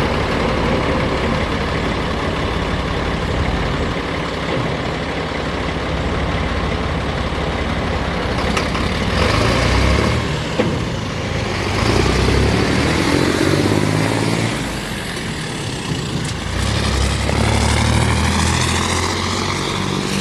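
Diesel engine of a 2009 Sterling Acterra dump truck, running steadily at idle and then rising and falling in speed several times from about nine seconds in. There is a single sharp click about ten and a half seconds in.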